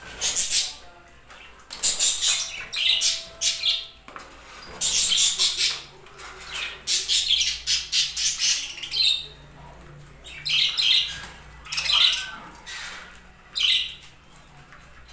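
Budgerigars chattering and squawking in repeated harsh, high-pitched bursts, several calls in quick succession.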